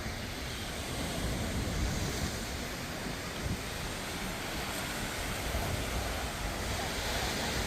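Ocean surf washing onto the beach in a steady wash, with wind buffeting the microphone in low gusts.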